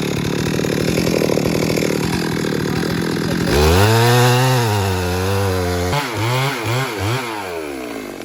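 Chainsaw running; about three and a half seconds in it is revved up and held, then drops back and is blipped up and down several times in quick succession.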